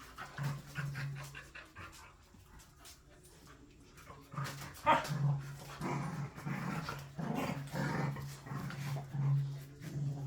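Dogs growling at each other in play: a low, steady growl, brief near the start and nearly continuous from about four seconds in, broken by rougher louder bursts.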